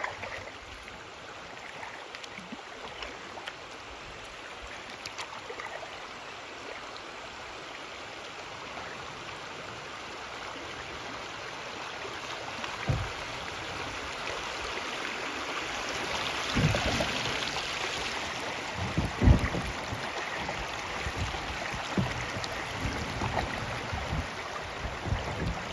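River water running, a steady hiss that slowly grows louder, with several short low thumps in the second half.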